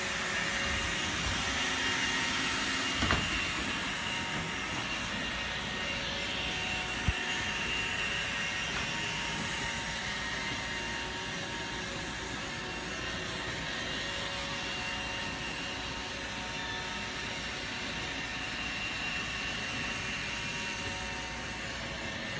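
Robotic vacuum cleaner running: a steady motor whir with several fixed tones. Two brief knocks, about three and seven seconds in.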